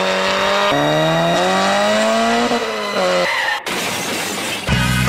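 Car engine revving hard, its pitch climbing and dropping again as it accelerates. About three and a half seconds in it cuts to a burst of rushing noise, and loud rock music comes in near the end.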